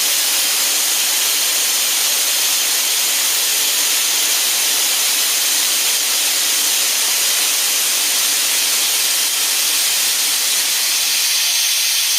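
Compressed air hissing steadily out of a Harbor Freight air compressor's tank as it is bled down, lowering the tank pressure towards the compressor's cut-in point.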